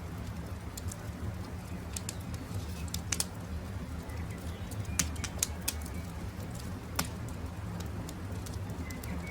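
Wood campfire crackling, with scattered sharp pops over a steady low rumble, and birds calling faintly in the background.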